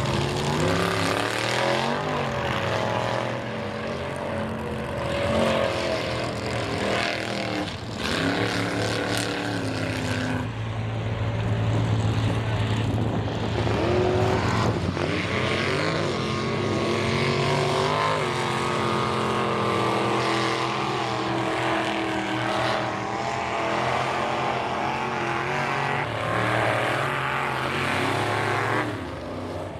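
High-horsepower mega mud truck engines revving hard, their pitch climbing and dropping again and again with no let-up.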